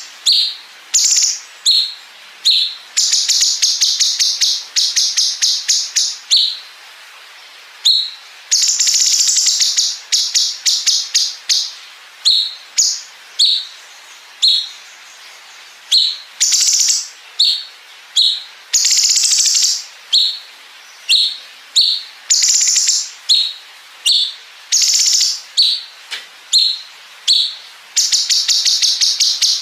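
Cucak cungkok singing a long, loud song. It repeats rapid rattling trills of one to two seconds, the 'bren' phrases, and between them gives short high single notes.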